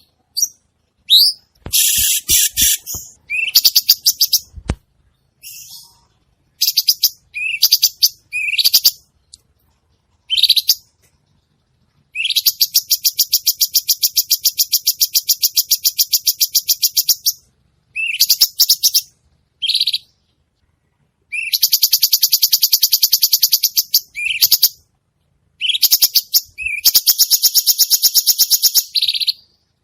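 Cucak cungkok bird singing: short rising whistled notes alternating with long, fast rattling trills of rapidly repeated notes, the longest lasting about five seconds.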